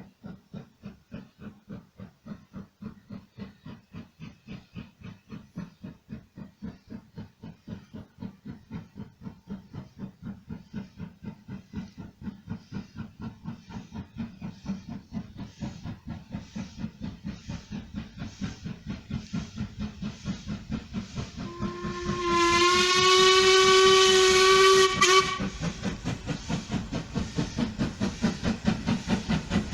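Ivatt Class 2MT 2-6-0 steam locomotive working, its exhaust beating steadily at about three beats a second and growing louder as it approaches. About three-quarters of the way through its steam whistle sounds once for about three and a half seconds, rising slightly in pitch as it opens.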